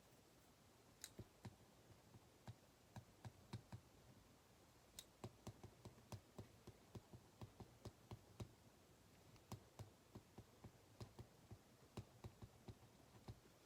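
Computer keyboard being typed on: faint, irregular key clicks, a few a second, with short pauses between runs.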